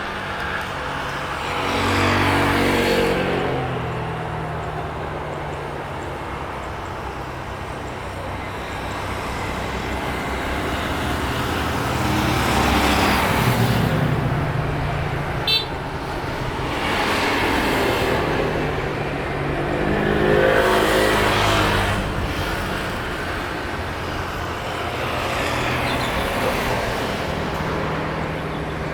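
Road traffic: vehicles driving past one after another, each engine swelling and dropping in pitch as it goes by. A brief high beep sounds about halfway through.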